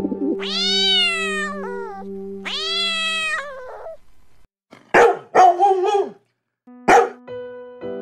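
Cat meowing twice, two long calls that rise and then fall in pitch. Later a dog barks several times in quick succession, then once more. Background music plays underneath.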